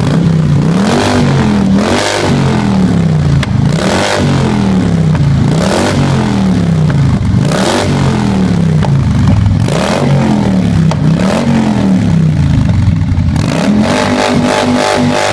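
Harley-Davidson Softail Deuce's V-twin engine breathing through Screaming Eagle II slip-on mufflers, revved hard again and again. Its pitch climbs and falls about every two seconds, and it holds high briefly near the end.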